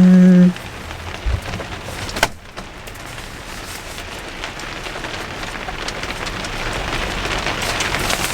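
Heavy rain falling, heard from inside a garden studio as a steady patter that grows a little louder toward the end. It opens with a short, loud, steady hum-like tone lasting about half a second, and a couple of soft knocks come in the first few seconds.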